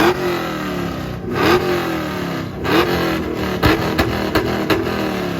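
Chevrolet Camaro V8 being free-revved through a loud aftermarket exhaust. It gives about four hard revs, each rising quickly and sagging slowly back down, followed by short blips with sharp cracks near the end.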